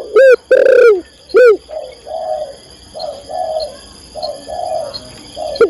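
Female spotted dove cooing, calling to a male: three loud arching coos in the first second and a half, then a run of softer, shorter coos.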